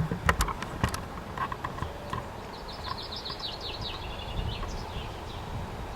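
A small songbird singing a short phrase of quick, high chirps that step down in pitch, about halfway through. A few sharp knocks come at the start, over a steady low background rumble.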